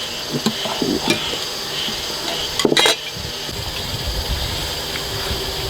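Bowls and chopsticks clinking and scraping during a meal, with one louder clatter about halfway through.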